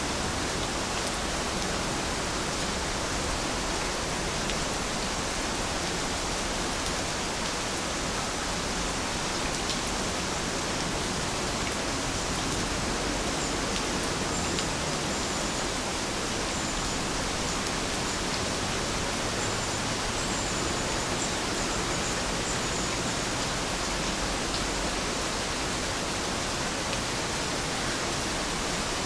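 Heavy rain falling steadily, an even hiss with no break or change.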